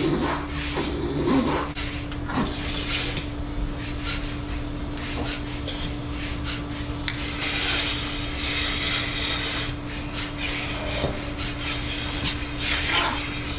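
Steady machinery hum in a dairy barn during milking, with scattered clanks, scrapes and rubbing of metal and wood. A hissing stretch comes about halfway through.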